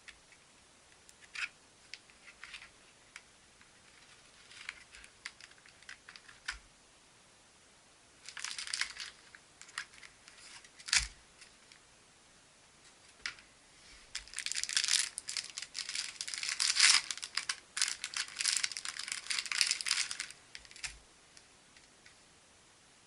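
Packaging being handled close by: crinkling and tearing, with scattered light clicks and taps. There is one sharp knock about eleven seconds in, and a long stretch of dense crinkling near the end.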